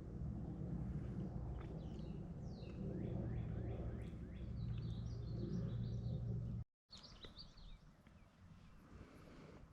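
Small birds chirping, a run of short sweeping calls, over a loud low rumbling noise. About two-thirds of the way through, the rumble drops away abruptly, leaving quieter chirps.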